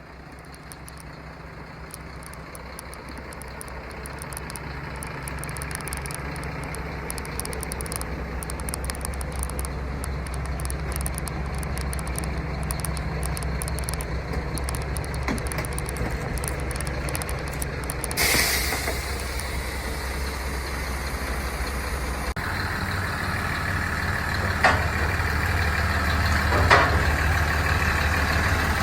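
Heavy truck engine running steadily and growing louder, with a short hiss of released air about 18 seconds in. The engine note steps up about 22 seconds in, and a couple of brief knocks follow.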